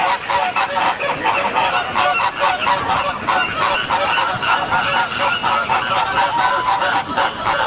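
A flock of flamingos honking, many short calls overlapping in a constant chatter.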